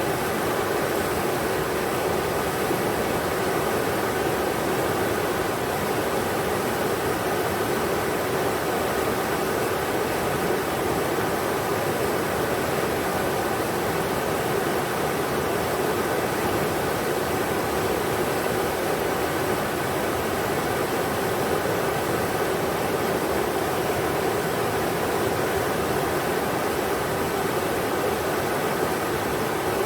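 River water rushing steadily, an even, unbroken noise with no let-up.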